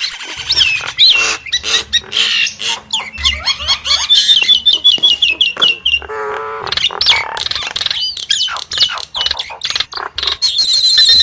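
Nias hill myna calling: a rapid, continuous run of whistles, clicks and quick pitch glides, with a lower, harsher call about six seconds in.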